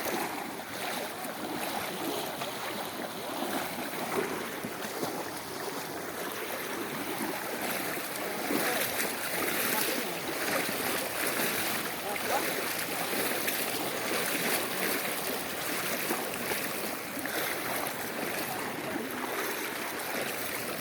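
Rushing water of a rain-swollen creek: a steady churning noise that swells and eases.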